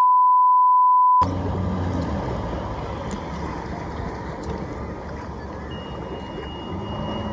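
A loud flat one-tone censor bleep cuts off the audio for about the first second, then steady rumbling noise of a jet ski's engine running under wind. A faint thin high tone sounds near the end.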